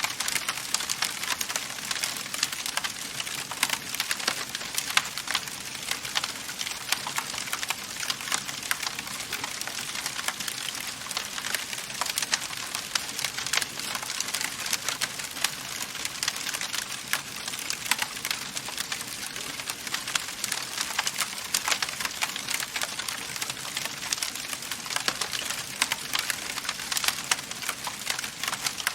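Wood fire burning in a fireplace: a steady hiss with dense, irregular small crackles and pops from the burning logs.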